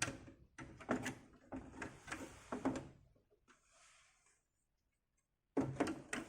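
Plastic Amiga 500 case parts knocking and clicking as the lid is set on and the machine is handled: several knocks in the first three seconds, then a silent gap, then more clatter near the end.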